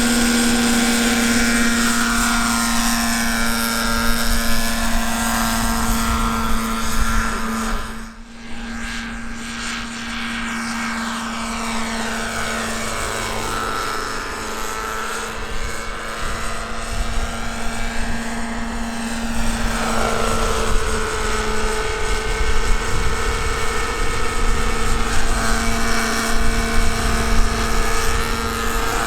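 Radio-controlled scale helicopter on Thunder Tiger Raptor 50 mechanics, with a .50-size two-stroke glow engine, in flight. Its engine and rotors run with a steady drone, and the pitch sweeps up and down as it moves about. The sound breaks off abruptly about eight seconds in and then carries on.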